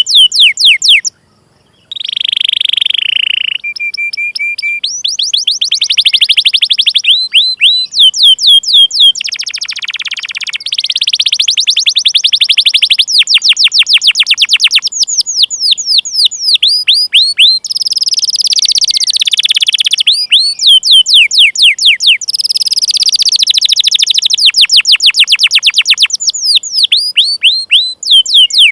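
Domestic canary singing: long, fast rolls of repeated downward-sweeping 'cuit cuit' chirps. There is a brief break about a second in, and a short steady buzzy note a few seconds in.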